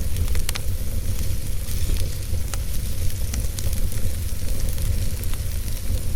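Fire burning in a fireplace: a steady low rumble of flames with a hiss, broken by irregular sharp crackles and pops, a small cluster of them about half a second in.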